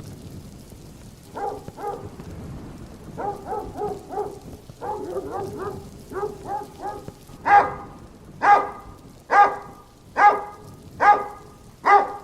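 A large dog barking, at first in quick runs of two to four barks. From about seven seconds in it gives louder single barks, about one a second.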